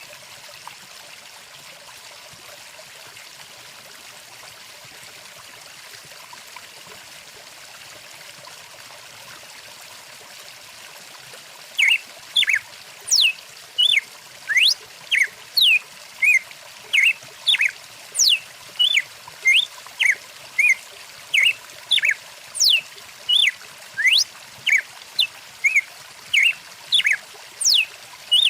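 Stream water flowing with a steady rush. From a little under halfway in, birds chirp in a fast run of short, loud whistled notes, about two a second, some sweeping up or down in pitch.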